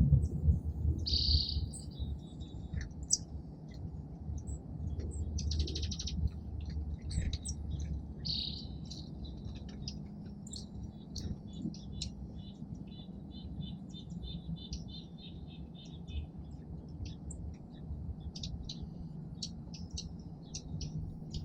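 Small songbirds chirping and calling: scattered short chirps, and about twelve seconds in a rapid run of even, repeated notes lasting a few seconds. A steady low rumble runs underneath.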